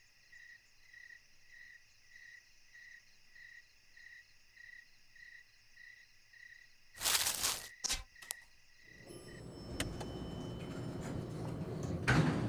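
Cricket chirping, a pulsing high tone about twice a second. About seven seconds in a loud, brief burst cuts across it, followed by two sharp clicks. Then a noise builds steadily toward the end.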